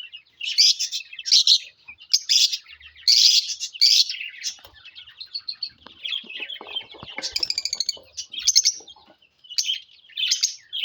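Lovebirds chirping: a rapid, uneven run of short high-pitched calls.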